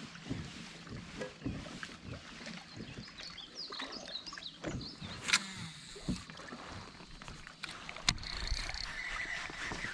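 Light knocks and clicks of fishing gear being handled in a kayak, over faint water noise, with two sharper clicks about five and eight seconds in.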